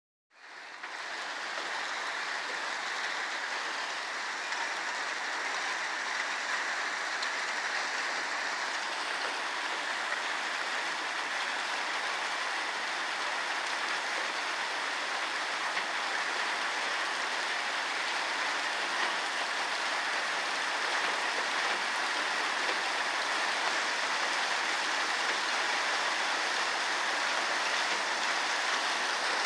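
Heavy rain pouring down steadily in a storm, a dense even hiss that fades in at the very start.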